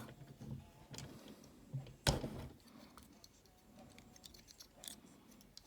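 Hard plastic parts of a Generation Toy Longhaul transforming robot figure clicking and rattling as they are handled and fitted together, with one louder knock about two seconds in.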